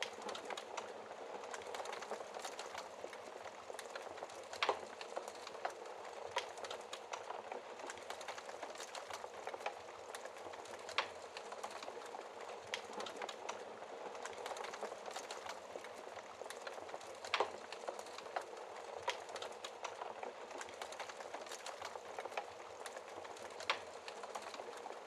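Wood fire crackling, with many small irregular snaps and a few louder pops, over a steady hiss of rain.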